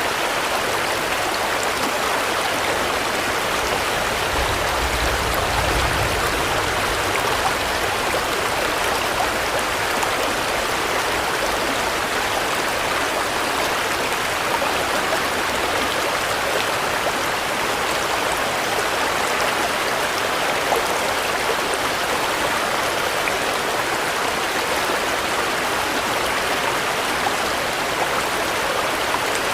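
Steady rain falling, an even, dense hiss with no let-up, with a brief low rumble about five seconds in.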